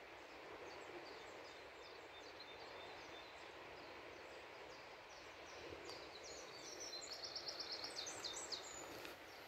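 Small birds chirping over a steady rushing background noise, with a fast trill of rapidly repeated high notes near the end.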